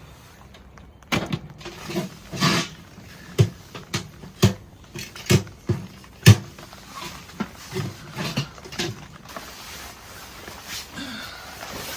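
A string of irregular knocks and thuds, about a dozen over several seconds, with a few short rustling swells, then quieter.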